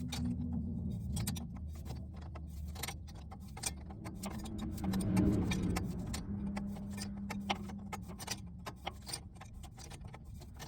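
Irregular metallic clicks and clinks of a 9/16 wrench tightening a threaded air-line fitting on a truck air dryer, over a steady low hum.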